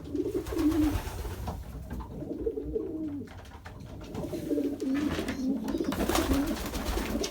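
Racing pigeons cooing, low wavering coos repeated one after another.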